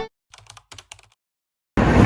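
Music cuts off, leaving near silence broken by a short run of faint, quick clicks like typing on a keyboard. About three-quarters of the way in, outdoor sound with voices starts abruptly.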